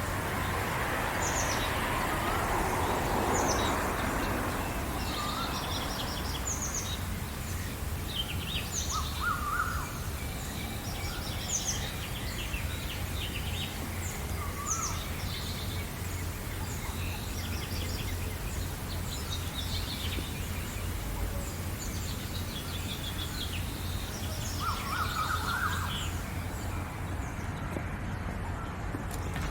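A dawn chorus of many small birds chirping and twittering in quick high calls, with a few lower, bending calls now and then. A steady low hum runs underneath, and a rushing noise rises and fades in the first few seconds.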